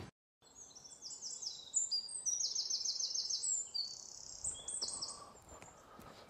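Small songbirds singing: quick runs of high-pitched chirping notes starting about half a second in, over faint outdoor background noise, growing fainter over the last second or two.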